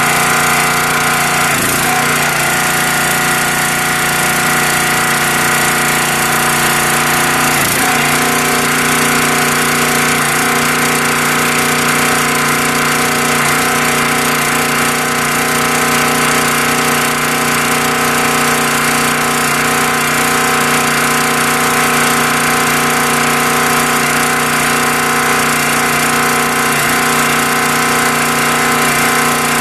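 The small gas engine of a new County Line log splitter running steadily on its first run, with two brief knocks over it about two and eight seconds in.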